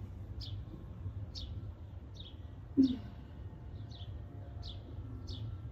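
A small bird chirping repeatedly: short, high chirps, each dropping in pitch, about one every second, over a steady low rumble.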